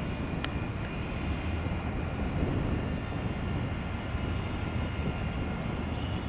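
Landing jet airliner's engines, a steady rumble with a faint high turbine whine, and a brief sharp click about half a second in.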